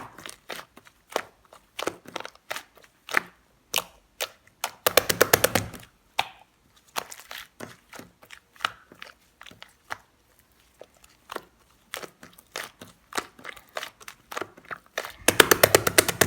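Slime being squished and poked by hand, making scattered sharp clicks and pops, with two runs of rapid crackling, about a second long each, around five seconds in and near the end.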